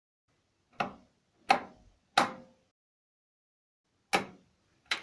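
Five sharp, brief plastic-and-metal clicks and knocks from the microwave being handled, the first three about two-thirds of a second apart and two more near the end, with dead silence between them.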